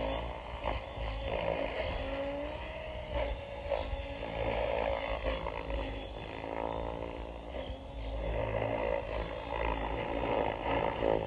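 Helicopter drone's motors and rotors running steadily, with a whine that wavers slightly in pitch.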